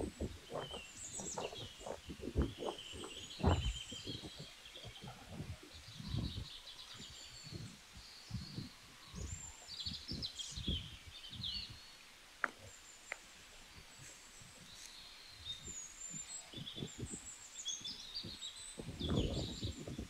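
Several small songbirds chirping and twittering in short, scattered calls. Low thuds come at about two a second in the first few seconds and again now and then, and a low rumble swells near the end.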